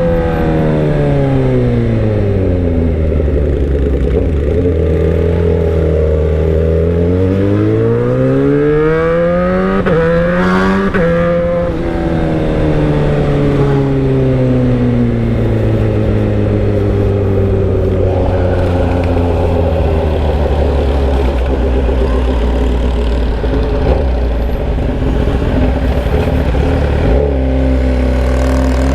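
Motorcycle engine running through a bare pipe with no muffler, while riding. The revs fall, hold low, then climb to a peak about ten seconds in with a quick break, then fall slowly for most of the rest and start climbing again near the end.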